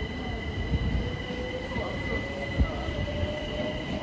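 Train moving at a station platform: a steady high-pitched whine over a low rumble, with a wavering squeal that slowly rises in pitch. A single knock comes a little past halfway.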